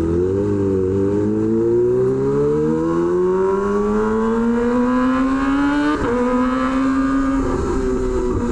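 Kawasaki Ninja ZX-25R's inline-four engine through an SC Project aftermarket exhaust, rising steadily in pitch under acceleration for about six seconds. It then drops suddenly as it shifts up a gear and runs on at a steadier note.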